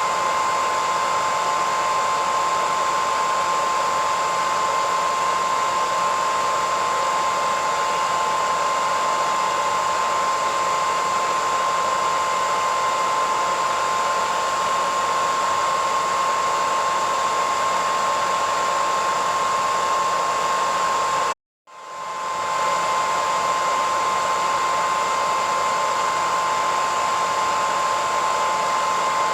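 Hair dryer running steadily: a whooshing rush of air with a steady whine. About two-thirds of the way through it drops out to silence for about half a second, then quickly comes back at full level.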